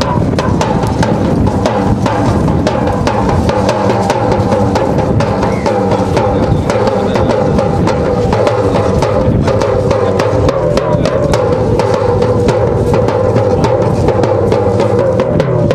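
Live band music led by drums played in a fast, dense beat, with a sustained melody line held above it.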